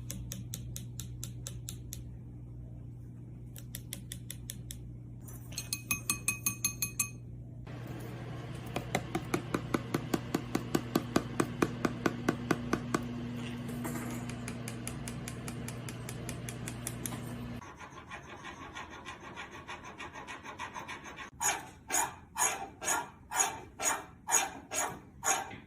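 A bird pecking rapidly at a hard, glassy surface, in bursts of sharp clinking taps, some of them ringing. A steady hum underneath stops about two-thirds of the way through. The last bursts are louder and slower, about two taps a second.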